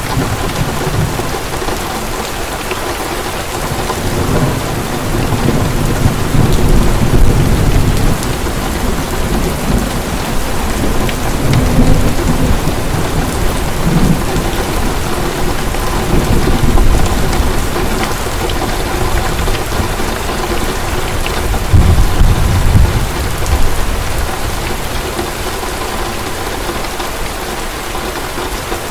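Heavy rain pouring steadily on a surface, with low rolling thunder swelling several times, loudest about a third of the way in and again near 22 seconds.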